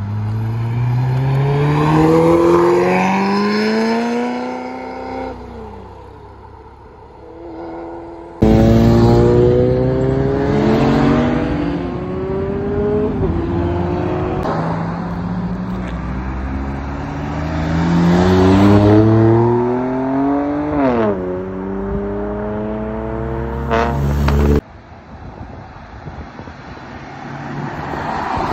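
Performance cars accelerating hard away one after another, each engine note rising through the revs and dropping back at each gear change. First a red Ferrari, then, after a cut about a third of the way in, a black Audi RS6 Avant's twin-turbo V8 pulling through several upshifts, and near the end a Chevrolet Camaro setting off.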